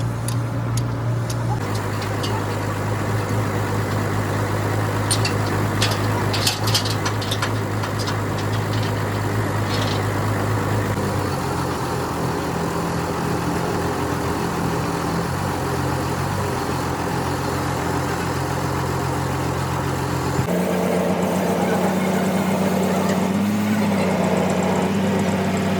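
Large diesel engine running steadily, its pitch jumping to a new level a few times, with a few short metallic clanks early in the run.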